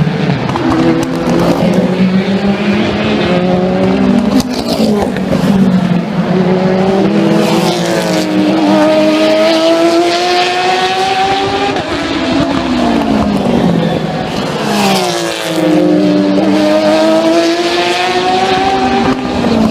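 Endurance race cars running past one after another at full engine note. Their engines rise in pitch and drop back with each upshift as they accelerate, several engines overlapping.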